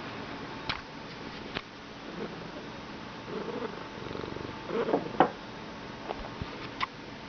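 Bengal cat purring while being petted, with a few short sharp clicks scattered through, the loudest about five seconds in.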